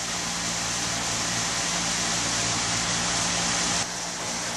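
Steady rushing hiss with a low hum underneath, with no words or distinct events; it drops a little in level near the end.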